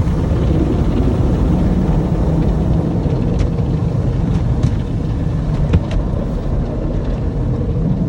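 Automatic tunnel car wash heard from inside the car: the wraparound brushes spinning and scrubbing along the car body, a steady loud rumble with a few sharp ticks in the middle.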